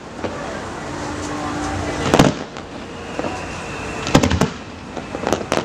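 Aerial fireworks shells bursting: a single loud bang about two seconds in, a quick cluster of bangs around four seconds, and a couple more near the end, over a steady background of crowd noise.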